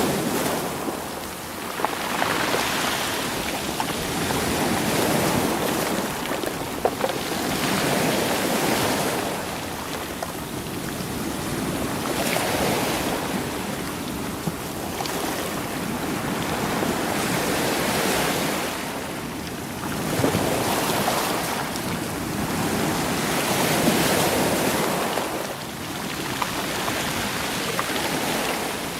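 Sea waves surging over a stony beach and rolling the stones, the rush swelling and ebbing every two to three seconds, with a few sharp clicks of stones knocking together.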